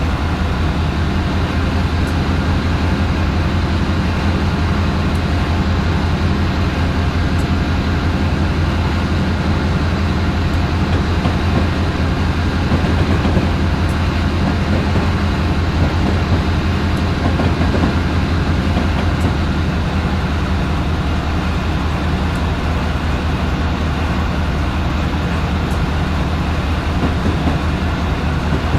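Train running, a steady, loud low rumble that holds unchanged throughout.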